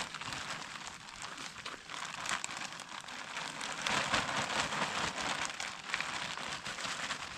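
Potting soil being handled and packed by hand around a potted palm's roots: a steady gritty rustling and crackling, densest about four seconds in.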